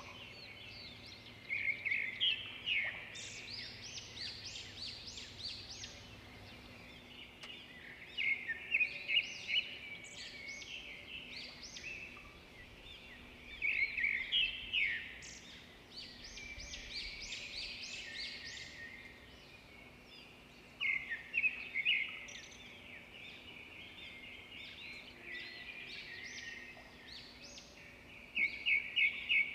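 Birds chirping and singing in bursts of quick notes that come back about every six to seven seconds, over a faint steady background hum.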